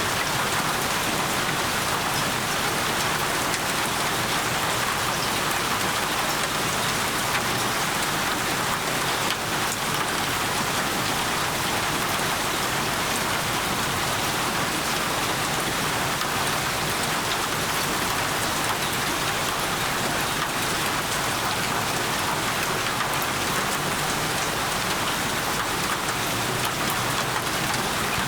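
Steady heavy rain falling on a surface: an even, unbroken hiss of many drops.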